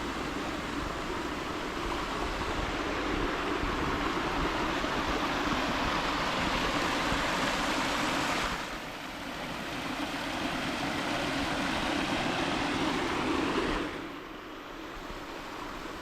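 Mountain stream rushing over rocks, a steady hiss of running water. Its sound drops and changes abruptly about halfway through and again near the end, as from cuts between spots along the stream.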